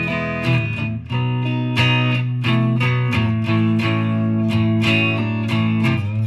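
Stratocaster electric guitar played through a Fender Mustang GTX100 amp on its Bright Clean preset: chords strummed and picked in a steady run of attacks, about two or three a second, with the notes ringing on between them.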